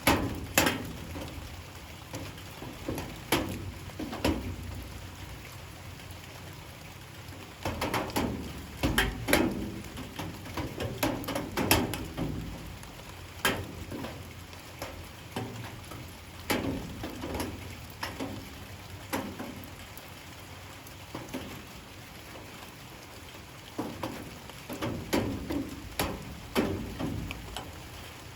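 Light rain falling, a steady patter with louder drips landing at irregular intervals, some in quick clusters, each a sharp tap on a hard surface.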